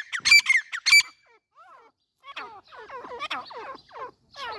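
A teetar (partridge) calling: loud, ringing, evenly repeated call notes, about three in the first second, then they stop. After a short gap comes a run of softer, quick chirps, each falling in pitch.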